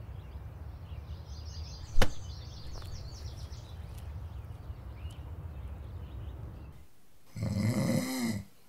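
Street ambience: a steady low hum with faint high chirping and one sharp knock about two seconds in. Then, near the end, a man gives one loud snore lasting about a second.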